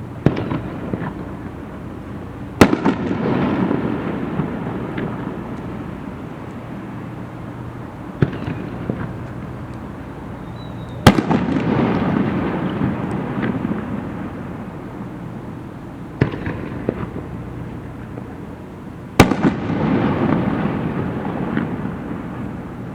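Aerial firework shells bursting: three loud bangs about eight seconds apart, each followed by a few seconds of rumbling echo and crackle, with a smaller pop a couple of seconds before each bang.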